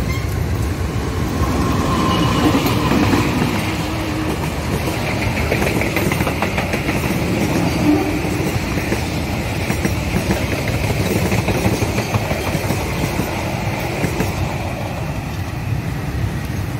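A CC 201 diesel-electric locomotive and its passenger coaches passing by on the rails. The wheels click steadily as the coaches roll past, and the sound grows a little quieter near the end as the last coach moves away.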